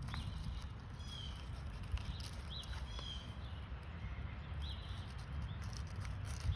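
A bird calling repeatedly: short high chirps, each a quick rising note followed by a brief falling trill, about once a second. A steady low rumble runs underneath.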